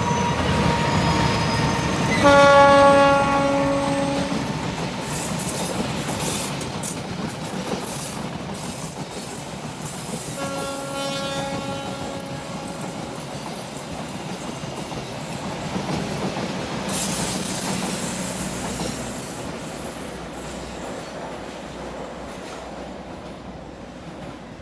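Passenger train passing. The locomotive horn sounds two long blasts, about two seconds in and again about ten seconds in, over the steady rumble of wheels on the rails. The train fades away toward the end.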